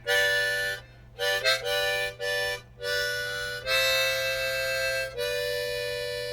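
Harmonica playing an instrumental break: a few short chordal phrases, one with a quick wavering bend about a second in, then a long held chord that slowly fades near the end.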